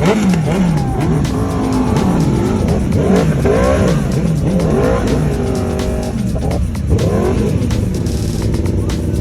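Superbike engines revved over and over in quick blips, the pitch rising and falling about twice a second, several bikes overlapping.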